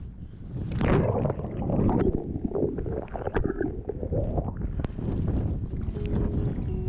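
Sea water sloshing and splashing in uneven surges, with wind buffeting the microphone. A faint steady tone comes in about six seconds in.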